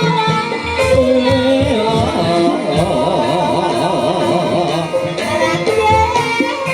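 Live jaranan dangdut music for a Javanese hobby-horse dance: drums beating a steady rhythm under melodic instruments, with a singing voice.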